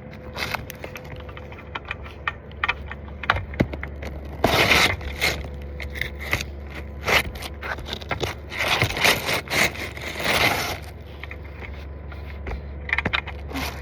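Asphalt roof shingles being scraped, crackled and worked loose by hand, with sharp clicks and several loud scraping bursts in the middle stretch.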